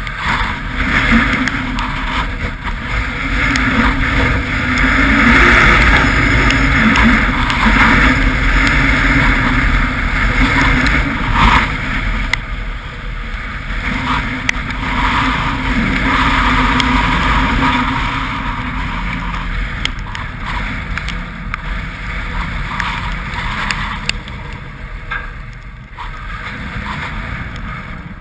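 Storm-force wind gusts buffeting the microphone: a loud rushing roar with heavy low rumble that swells and eases, strongest in the first half and dropping back later.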